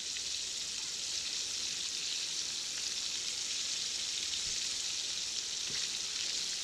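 Battered pickles deep-frying in hot oil in a cast-iron skillet: a steady sizzle with small scattered crackles of spattering oil.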